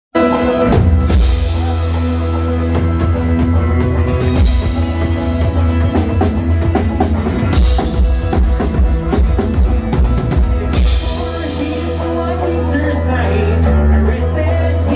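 Live band playing a rock song, with a drum kit keeping a steady beat over a loud bass line.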